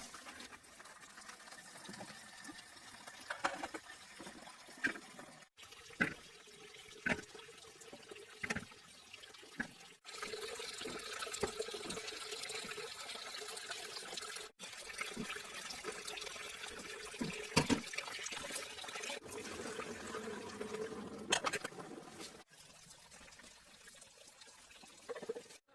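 Water pouring and splashing, with scattered knocks and clatters, in several short segments that start and stop abruptly.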